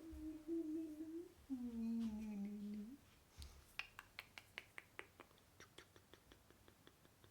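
A woman humming two held notes, the second sliding a little lower, then a run of light clicks, about three a second, that grow fainter.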